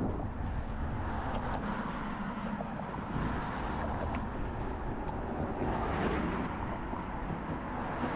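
City street ambience with steady traffic rumble; a vehicle passes, swelling louder about six seconds in.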